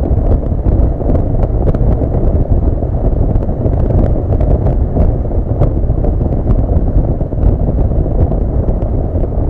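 Steady wind rush and buffeting on the microphone of a moving Honda CB400 Super Bollente motorcycle, with the bike's engine running underneath.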